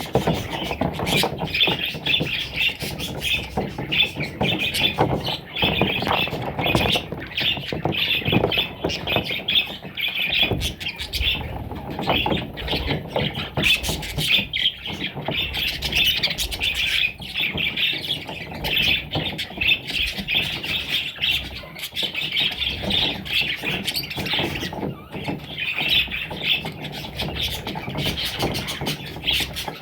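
Parrot chicks giving rapid, raspy squawking calls, one after another without a break.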